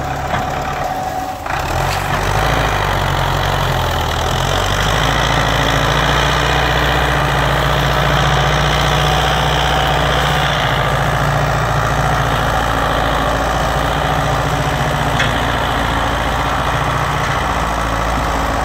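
Tractor engine running steadily, getting louder about a second and a half in.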